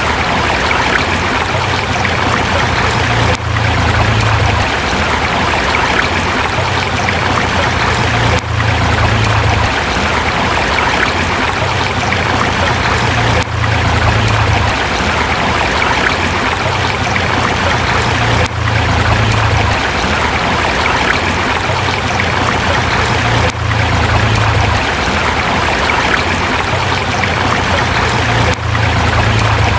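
River water flowing over rocks: a steady rush of water, with a brief dip in level about every five seconds.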